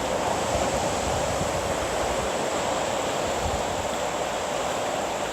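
Steady rushing wash of waves surging on the shore.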